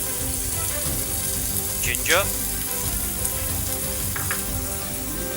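Chopped onions, tomatoes and garlic sizzling steadily in hot oil in a pan.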